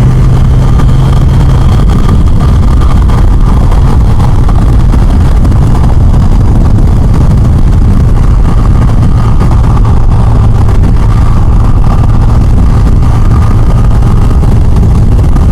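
Yamaha FJR1300 inline-four motorcycle cruising in freeway traffic: loud, steady engine hum mixed with wind and road noise.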